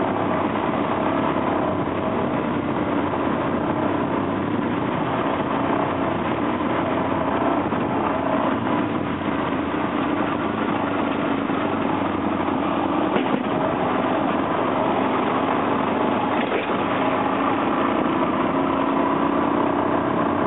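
Adventure motorcycle's engine running steadily as the bike rides along, its pitch holding nearly level, with noise from the ride mixed in.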